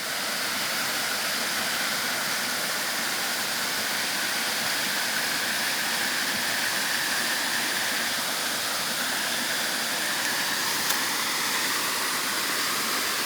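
Rushing river water, a steady even hiss with no change in level, as at the foot of falls or fast-flowing rapids.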